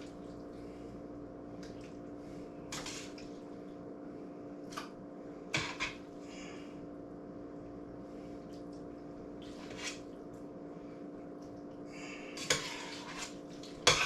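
A spoon scraping and clinking now and then against a metal pot and pan as thick casserole mixture is ladled out, a few separate knocks spread out with the loudest near the end. A steady hum runs underneath.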